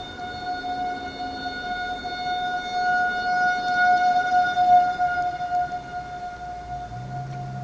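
Fire engine siren sounding one steady, unwavering high tone, growing louder to a peak about two-thirds of the way through and then fading as the truck passes. A low vehicle engine hum comes in near the end.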